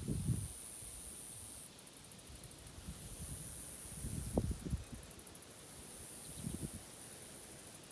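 Forest ambience: a high-pitched, finely pulsing insect buzz that drops out and returns a couple of times, with low rumbles of wind on the microphone right at the start, about four seconds in and again near six and a half seconds.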